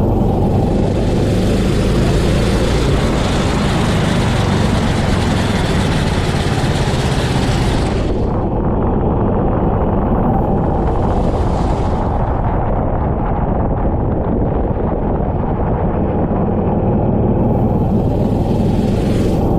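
Go-kart engine running hard at racing speed, loud and continuous. A high hiss rides over it three times: for the first eight seconds, briefly around the middle, and again near the end.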